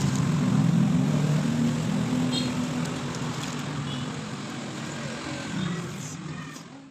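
A low, steady motor-vehicle engine hum that fades away over the second half, with a few short high chirps on top.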